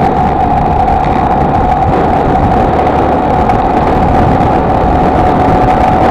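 Honda XLR125R's single-cylinder four-stroke engine running steadily: a constant droning tone over a low rumble.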